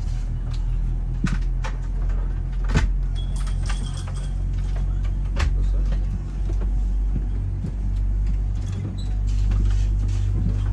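Steady low drone of a vehicle's interior, with several hum tones and scattered clicks and rattles.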